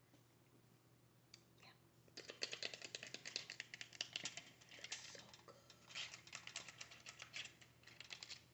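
Close-up eating sounds from a seafood boil: rapid, dense crackling and clicking that starts about two seconds in, as shells are handled and broken or food is chewed.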